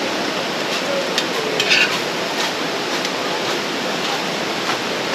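Steady rushing of a mountain stream, with a few light clicks and taps of things being handled, a small cluster of them a little under two seconds in.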